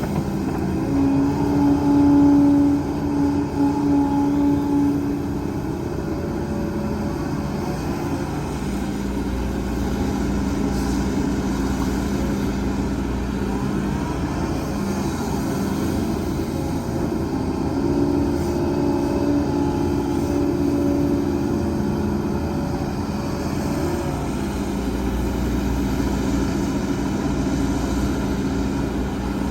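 Heavy diesel earthmoving machinery running steadily with a low hum. Its engine tone rises and strengthens twice, about a second in and again near the middle, as it comes under load.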